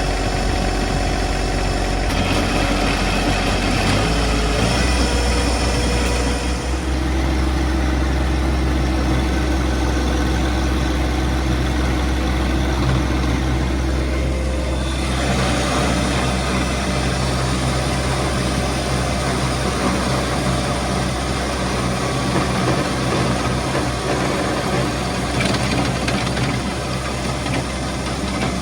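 John Deere 2025R compact tractor's three-cylinder diesel engine running steadily at working speed while it drives a rear-mounted rototiller churning trail soil. The engine note holds even throughout, with its higher-pitched content shifting a couple of times as the load changes.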